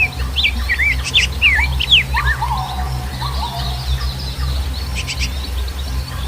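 Several birds chirping and whistling: quick, slurred notes rising and falling, busiest in the first two seconds, then a run of rapid high chirps. A steady low rumble runs underneath.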